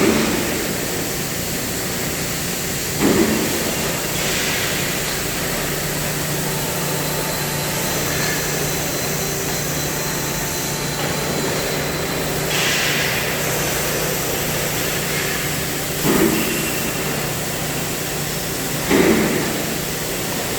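CNC cutting machine at work: a steady loud hiss of the cutting torch, with short louder bursts a handful of times and a low hum through the middle.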